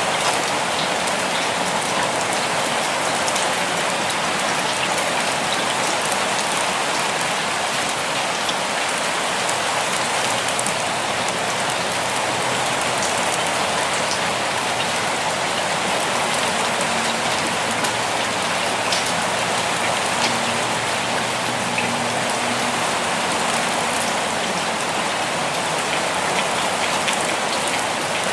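Steady rainfall on a surface, an even hiss with scattered individual drops ticking through it.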